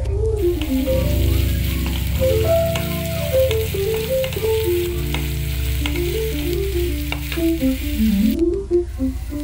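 Sliced onions and green chillies sizzling in hot oil, with a spatula stirring and scraping against the pan in short clicks. A background melody plays over it.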